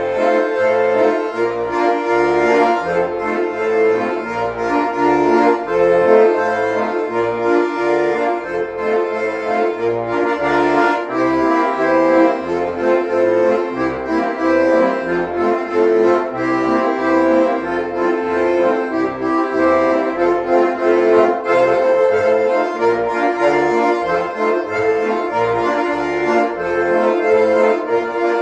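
Two bayans (Russian chromatic button accordions) playing a Russian folk tune in duet: a melody over a steady, evenly pulsing bass-and-chord accompaniment. The playing starts abruptly out of silence.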